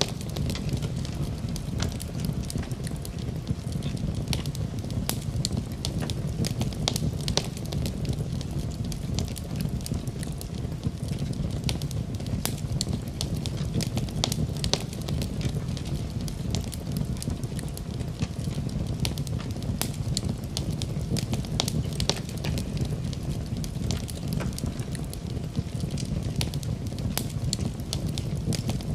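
Wood fire crackling in a fireplace: a steady low rumble with irregular sharp pops and snaps throughout.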